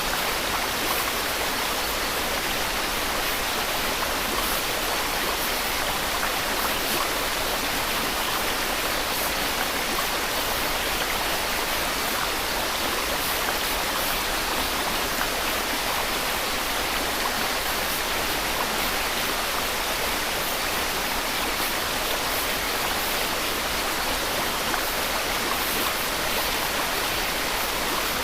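Steady white noise: an even, bright hiss that holds without change.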